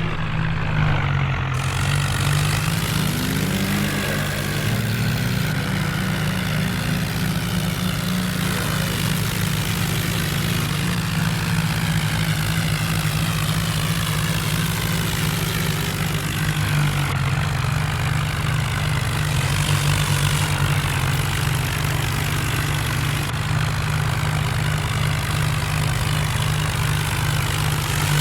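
Diesel tractor engines running steadily at high load, with a deep, continuous engine note that wavers slightly in pitch in the first few seconds.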